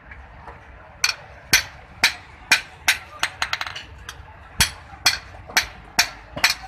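Blacksmith's hammer striking a knife blank on an anvil: sharp ringing metal blows, about two a second, starting about a second in.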